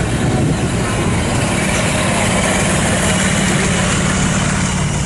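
An engine running steadily at idle: a constant drone with a steady low hum under a wash of noise.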